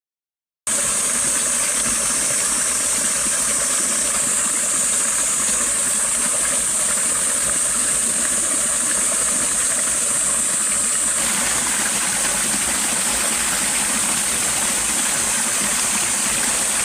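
Mountain spring water running and splashing in a steady, continuous rush. The sound changes slightly about eleven seconds in.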